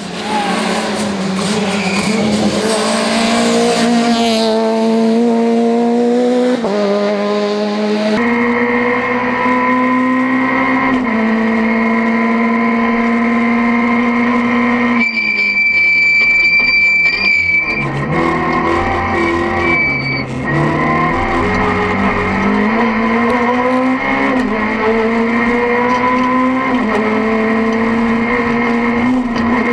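Rally car driven flat out: first the engine revving hard as the car comes toward the roadside, then heard from inside the cockpit, the engine note climbing and falling again and again through gear changes. About halfway through, a high squeal holds for two or three seconds while the revs drop, as the car brakes for a corner.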